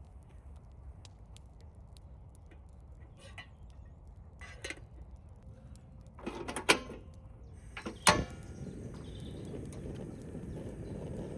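Camp cooking gear being handled: scattered small clicks, then two loud clattering knocks about six-and-a-half and eight seconds in, over a low steady rumble. A steady hiss starts about eight seconds in.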